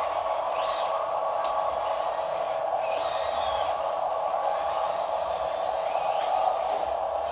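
Steady whirring of a small electric motor and plastic gearbox, as from a toy RC dump truck driving.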